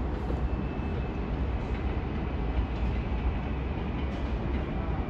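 R188 subway train running on the 7 line's elevated track, a steady noise heaviest in the low end, with a faint high squeal in the first few seconds.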